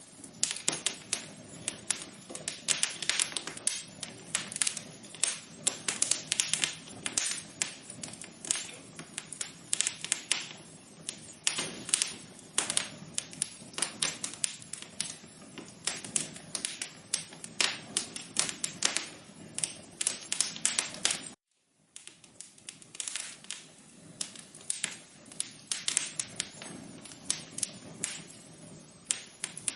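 Wood fire crackling: a steady stream of irregular sharp pops and snaps over a soft low hiss, breaking off completely for about half a second roughly two-thirds of the way through.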